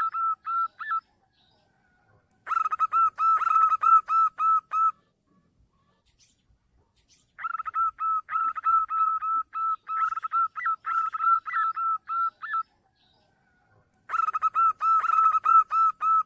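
Zebra dove calling, used as a lure call: rapid runs of short, clear notes at one steady pitch, a few flicking upward. There are four runs of one to five seconds each, with short pauses between them.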